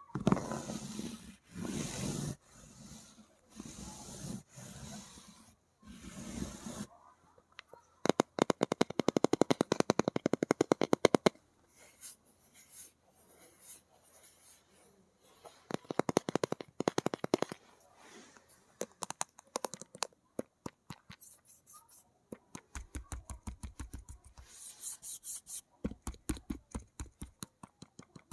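Fingernails scratching and tapping on hard objects: scratchy rubbing strokes for the first several seconds, then bursts of fast nail tapping with short pauses between.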